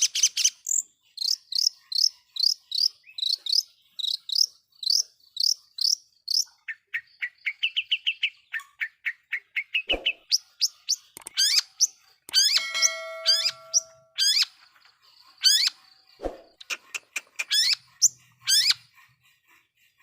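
Long-tailed shrike singing a vigorous song: a run of sharp rising notes about two a second, then a faster, lower trill, then a harsh buzzy note and a mix of varied calls. Two brief knocks can be heard, one about halfway through and one later.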